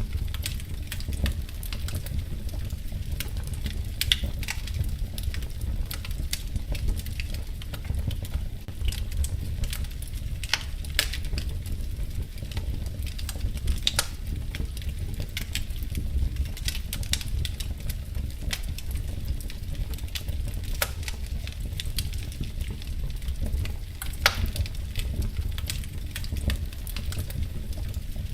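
Wood fire crackling in a fireplace: a steady low rumble with frequent sharp pops and snaps at irregular moments.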